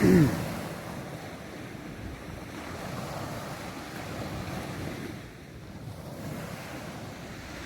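Sea waves washing onto the shore in a steady wash that swells and eases gently, with some wind on the microphone.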